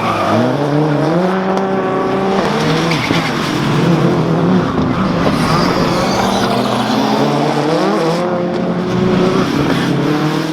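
Lancia Delta HF Integrale Group A rally car's turbocharged four-cylinder engine at full effort, revs climbing and dropping repeatedly as it is driven hard through the gears and corners.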